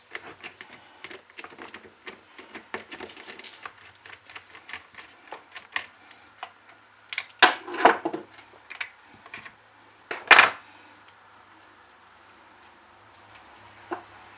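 Tools and small metal chainsaw parts being handled on a workbench: irregular light clicks and taps, with louder clattering knocks about halfway through and again a couple of seconds later.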